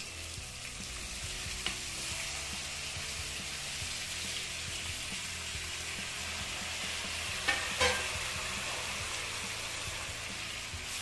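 Stuffed brinjals frying in hot oil in a steel kadhai, a steady sizzle. A few sharp metal clinks against the pan, one about two seconds in and two close together nearer the end.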